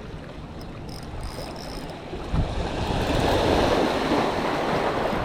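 A wave breaking and washing up the shore, the surf building about two seconds in and easing near the end, with wind rumbling on the microphone throughout.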